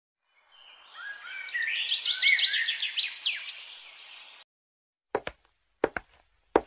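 Birds chirping: a busy run of quick chirps and falling whistles lasting about four seconds, which cuts off abruptly. After a short pause come three sharp footsteps about two-thirds of a second apart.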